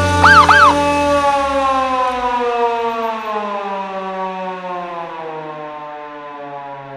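A siren winding down, its pitch slowly falling as it fades away, with two quick rising-and-falling chirps about a third of a second in.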